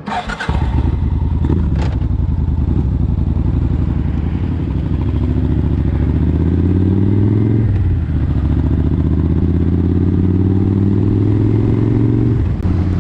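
Motorcycle engine pulling away and accelerating. The pitch climbs steadily and drops at a gear change about eight seconds in, then climbs again until another shift near the end.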